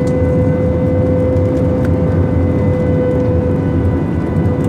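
Airplane engines droning steadily: an even rumble with a constant hum over it, unchanging in pitch.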